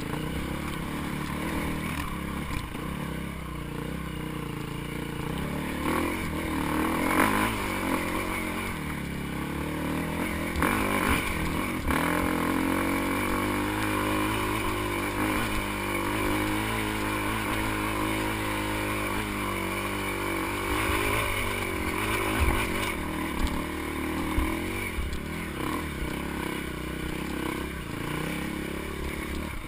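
Dirt bike engine running and revving, its pitch rising and falling, with a long stretch of held higher revs in the middle.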